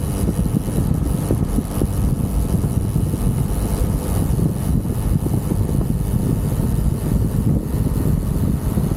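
UM Renegade Commando 125 motorcycle under way: a steady engine drone mixed with a low wind rumble on the handlebar-mounted microphone.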